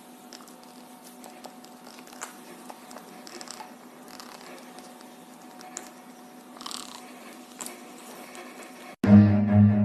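Faint scattered clicks and crunches over a low steady hum in a quiet room. Music starts suddenly near the end.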